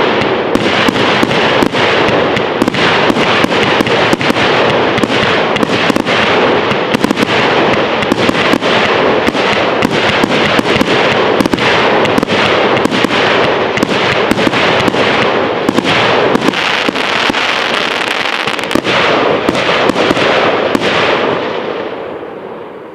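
Fireworks display: a dense, continuous barrage of bangs and crackles, dying away over the last two seconds or so.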